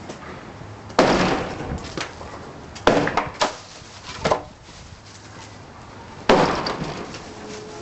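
Demolition crashes as a rotten porch roof is knocked apart with a hammer: two big crashes of breaking and falling debris, about a second in and again near the end, with several sharp knocks in between.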